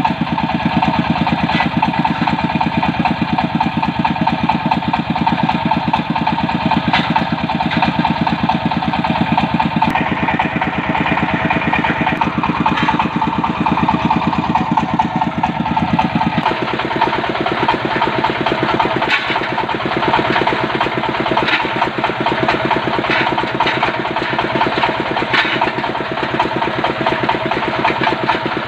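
Diesel engine of a water-well drilling rig running steadily. Its note changes about sixteen seconds in, and short knocks come through now and then afterwards.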